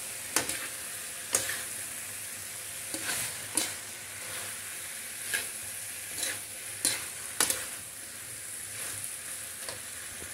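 Okra, onion and tomato sizzling steadily in a hot wok as a metal slotted spatula stirs them, with irregular scrapes and clicks of the spatula against the pan.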